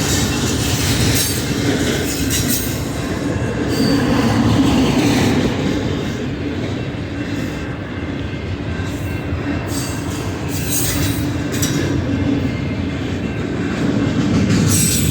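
Union Pacific manifest freight train's cars rolling past, a steady rumble with clicks of wheels over the rail and brief high wheel squeals, mostly near the start and the end.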